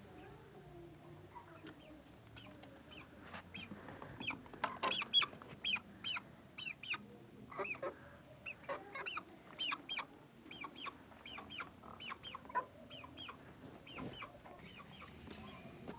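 Chickens clucking: a run of short, quick calls, several a second, getting busier a few seconds in and thinning out near the end.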